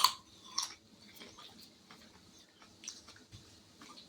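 A person chewing oven-dried candied cranberries, with small irregular crunches and mouth clicks. There is a sharper crunch right at the start and another about half a second in.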